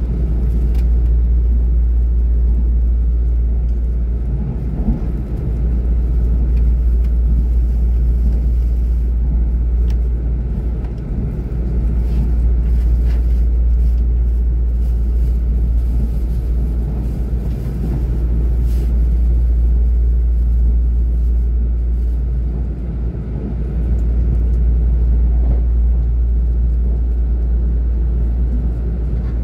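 Steady low rumble of a moving passenger train heard inside the carriage: wheels and running gear on the rails, with slight swells and dips in loudness.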